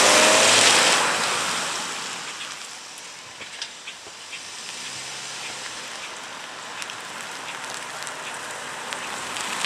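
2008 Chevrolet Malibu's four-cylinder engine accelerating hard from a standstill, its pitch rising as the car pulls away, then fading over the first couple of seconds. The engine is faintly heard again a few seconds later and grows louder near the end as the car comes back toward the microphone.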